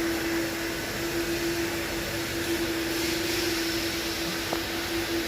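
A steady machine hum: one constant whine over an even hiss.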